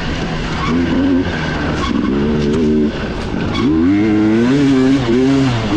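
Racing dirt bike engine heard from on board, revving hard with its pitch climbing and dropping through throttle and gear changes, and a sharp throttle chop about three and a half seconds in before it pulls again.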